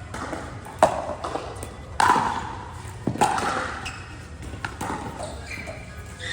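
Pickleball rally: paddles striking a plastic pickleball, each hit a sharp pop with a short ring. The loudest hits come about a second apart, with fainter hits and bounces between them.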